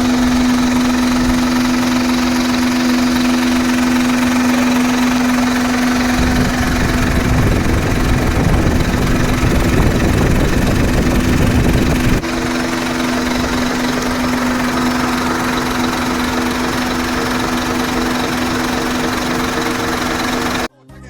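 Isuzu GIGA truck's 6UZ1 diesel engine running steadily, with a low rumble and a steady hum. The rumble grows heavier for several seconds in the middle. The sound cuts off suddenly near the end.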